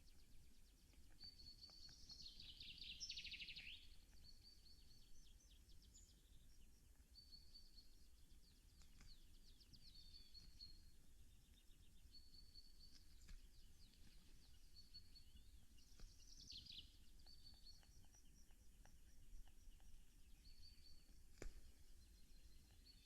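Faint songbird song: a short high phrase repeated every couple of seconds, with a longer descending trill twice, about two seconds in and again about sixteen seconds in. A few faint clicks sound between the phrases.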